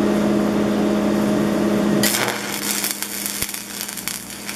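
Stick-welding setup: a steady electrical hum, then about two seconds in the arc strikes with a sudden burst and settles into the steady crackle and sizzle of a burning electrode laying a short bead.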